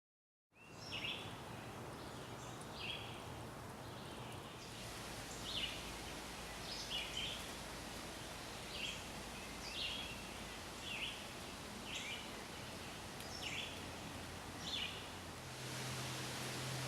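Pileated woodpecker giving short, repeated calls, about one every second or so, over a steady background hiss. A low steady hum comes in near the end.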